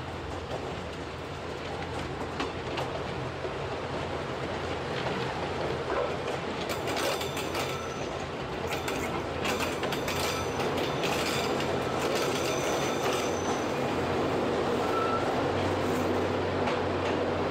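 Narrow-gauge rack railway train running, heard from the cab: a steady low motor hum with wheel clicks over the rails, and wheels squealing on and off through the middle.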